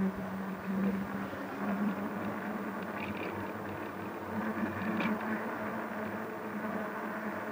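Street traffic and road noise with a steady low hum, picked up by an action camera on the handlebars of a moving electric bike.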